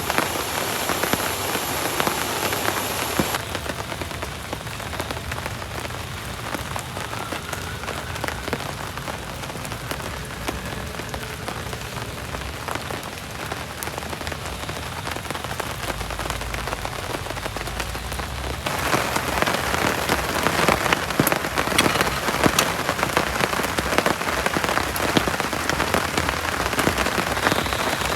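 Heavy tropical rain falling and pattering on a surface with many separate drop ticks. The sound changes abruptly twice, and the rain is louder and denser in the last third.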